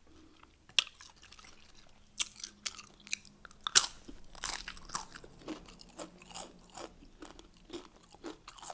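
Close-miked crunching and chewing of Doritos nachos: irregular crisp crunches of tortilla chips between the teeth, the loudest about four seconds in.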